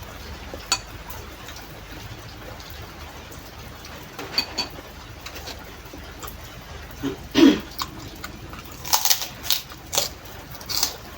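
Close-up eating sounds: scattered clicks and short slurps of soup and cracker, with a louder low mouth sound about seven seconds in and a quick run of slurps and crunches near the end.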